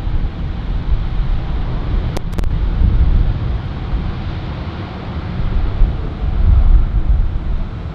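Wind buffeting the microphone over the steady rumble of a jet airliner's engines, with two short clicks a little over two seconds in.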